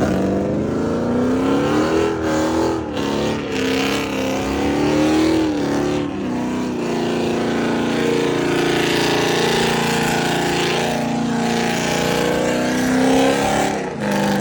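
A car engine revving with a loud exhaust, its pitch rising and falling over the first few seconds, then held at a fairly steady speed for several seconds before rising again near the end.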